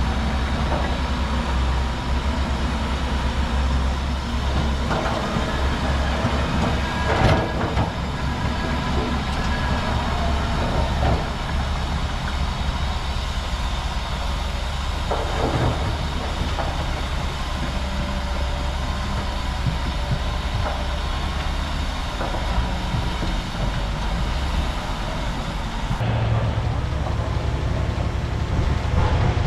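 Crawler bulldozer's diesel engine running steadily, with the clatter of its steel tracks and a few metal clanks, the loudest about seven seconds in.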